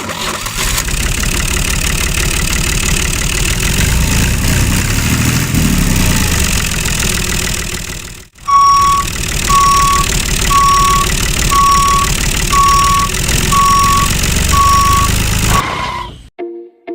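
A motor runs steadily, stops abruptly about eight seconds in, then starts again at once with a regular high beeping like a reversing alarm, about one beep a second, seven beeps in all. All of it cuts off shortly before the end.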